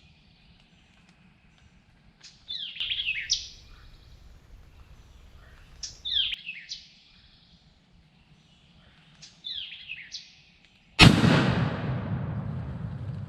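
A bird calls three times, each a quick run of falling chirpy notes about a second long, a few seconds apart. Near the end, a single loud shotgun blast cracks and rolls away in a long fading echo: the shot that kills a wild turkey at close range.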